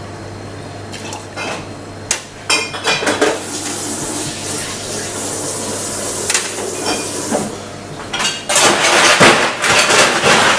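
Metal bar tools clinking, then liquid poured steadily for several seconds, likely the aged rum going into the shaker. Near the end, a loud run of clattering metal and glass.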